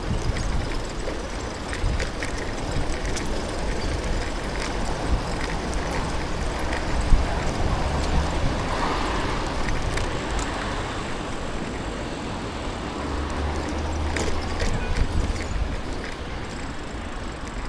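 City street noise from a moving bicycle: a steady rumble of road and wind with passing traffic, swelling twice. There are a few sharp clicks and rattles.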